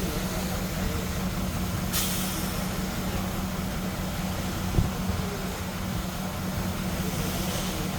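Heavy diesel engines of a crawler bulldozer and dump trucks running steadily. There is a brief hiss about two seconds in and a single thump just before five seconds.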